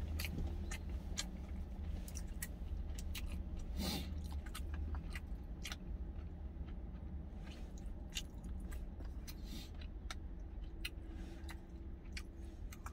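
A person chewing food up close, with frequent short sharp clicks from the mouth and chopsticks, over a steady low hum.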